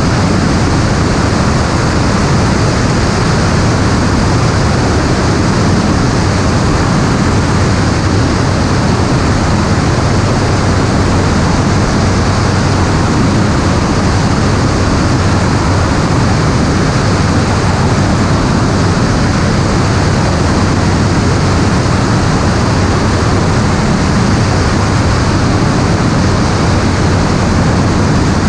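Steady drone of an aircraft in flight: constant engine or propeller hum under a loud, even rush of air, unchanging throughout.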